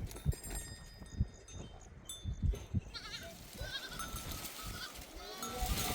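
Goats bleating, several wavering calls from about three seconds in. Before them come the tinkle of small livestock bells and a few dull knocks.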